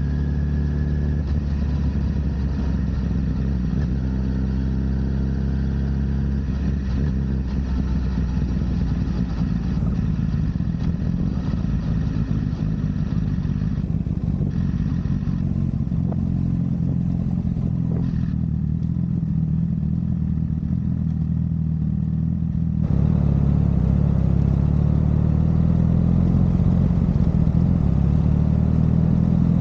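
Honda CBR1000RR sportbike's inline-four engine running while riding at a fairly steady engine speed. It gets abruptly louder about three quarters of the way through.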